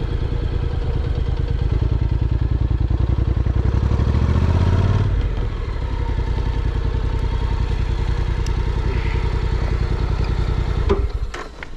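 Honda NC750X's parallel-twin engine running under way, its pitch rising for a few seconds, then dropping sharply about five seconds in before running steadily again; it cuts off near the end.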